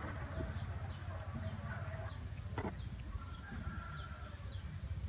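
A bird chirping over and over: short, high, falling chirps, about two and a half a second, over a low steady rumble.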